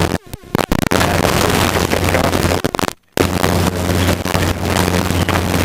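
Helicopter cabin noise heard through the intercom: a steady low drone of the rotor and engine under a loud rush of noise. It cuts out twice, briefly just after the start and again about three seconds in, as the intercom or radio mutes.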